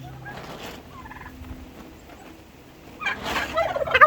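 Turkey gobbling: a loud, rapid rattling gobble starting about three seconds in, after a few faint short calls.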